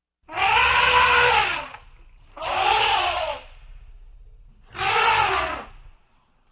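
An animal calling three times. Each call lasts a little over a second, rises and then falls in pitch, and a low rumble runs underneath.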